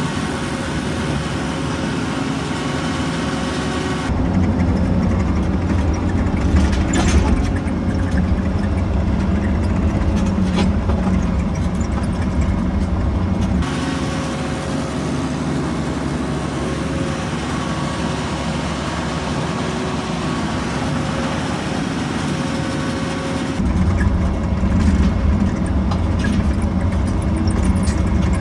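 Skid steer engine running steadily, its deep note growing louder about four seconds in, easing off about halfway through and rising again near the end, as it works and changes load. A few brief clicks or knocks come in the louder stretch.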